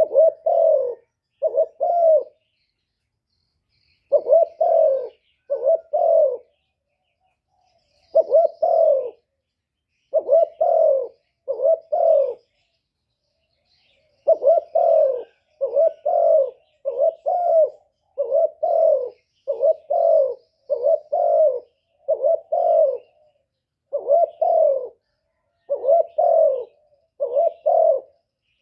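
Spotted dove cooing over and over in phrases of two or three low coos, with short pauses between phrases that close up in the second half. It is a decoy (mồi) dove's song, used to draw wild doves in and provoke them to coo back.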